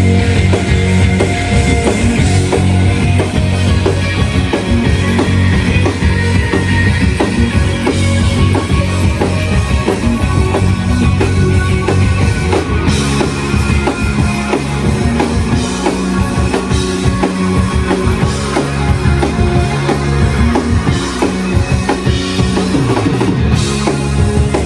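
A live shoegaze rock band playing loud, with dense distorted guitars, bass and a driving drum kit; the bass line changes to a choppier pattern about halfway through.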